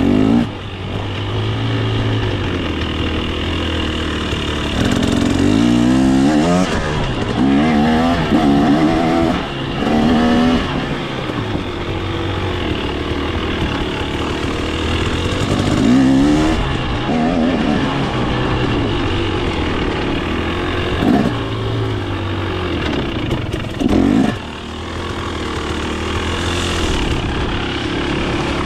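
KTM 250 XC's single-cylinder two-stroke dirt bike engine running, heard from on board, revved up and down in a series of short bursts between stretches of steadier low running.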